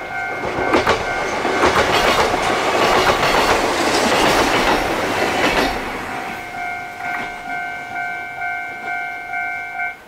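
Yoro Railway electric train passing close by, wheels clacking over rail joints. It is loudest from about two to five seconds in and then fades away. A pulsing level-crossing warning bell rings under it, comes through clearly as the train fades, and stops abruptly near the end.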